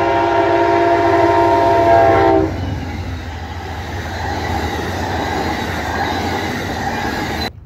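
Amtrak passenger train's locomotive horn sounding a loud multi-note chord, which stops about two and a half seconds in. The rumble and clatter of the passenger coaches rolling past close by follows, and cuts off suddenly near the end.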